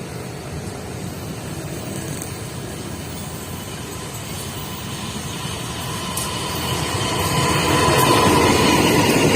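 Train approaching, its rumble growing steadily louder through the second half, with a high steady tone joining in near the end.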